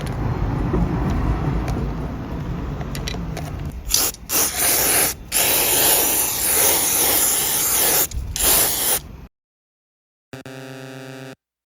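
Aerosol spray can hissing in several bursts with short gaps, after a few seconds of handling and scraping. A short pitched tone sounds for about a second near the end.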